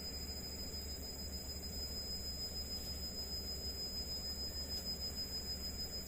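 Night insects, crickets, trilling steadily at a high pitch over an even low hiss.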